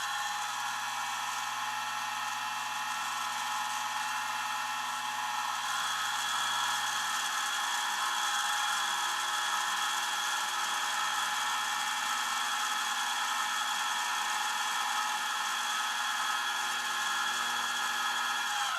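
A power tool's electric motor spins up to a steady high-pitched whine, runs evenly for most of the time, and winds down to a stop near the end.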